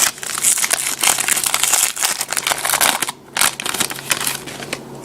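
Wrapper of a pack of trading cards being torn open and crinkled, with a brief pause a little after three seconds and softer crinkling after it.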